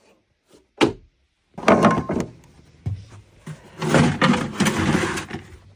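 A sharp thunk, then two spells of rattling and clattering as gear is handled and moved about.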